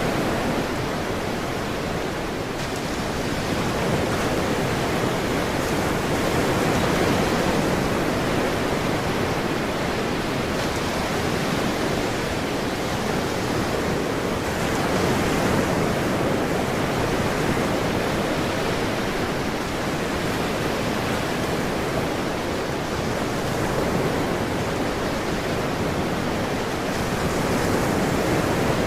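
Ocean surf: a continuous rushing wash of waves that swells and eases gently every several seconds.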